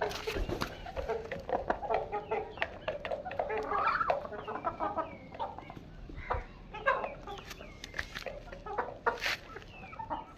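Chickens clucking, with many short calls one after another, mixed with frequent sharp clicks and taps.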